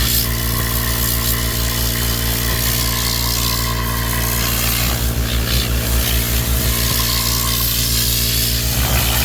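A motor-driven detailing machine running steadily: a strong, even hum with a hiss over it.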